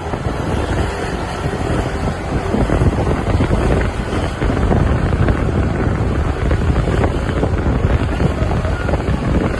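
Wind buffeting the microphone on a moving motorcycle, a loud, irregular rumble over the road and traffic noise, rising a little about two and a half seconds in.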